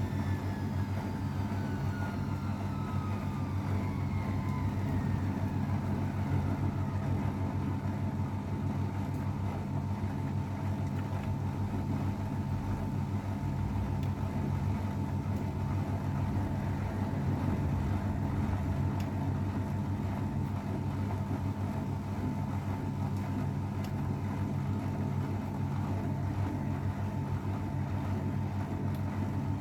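AEG Öko_Lavamat 693 washing machine running with a steady motor hum, its motor whine falling in pitch over the first few seconds.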